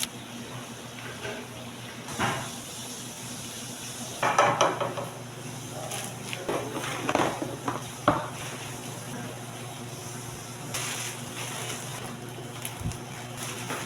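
Commercial kitchen work sounds: pots, pans and dishes clattering irregularly over a steady low hum. The loudest is a cluster of clanks about four and a half seconds in.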